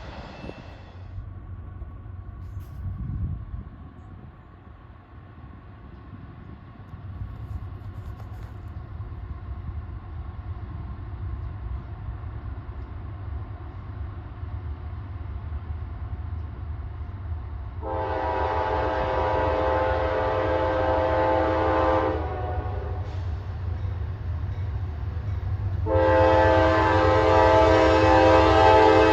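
Approaching CSX diesel freight train: a low rumble builds steadily, then the locomotive's multi-chime air horn sounds one long blast of about four seconds and starts a second long blast near the end.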